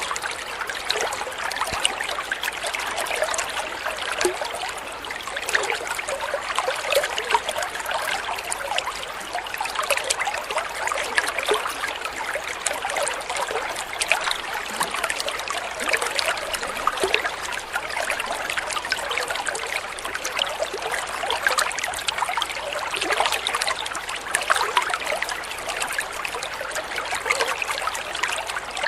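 Water trickling and splashing steadily, like a small stream or fountain, with many small irregular splashes.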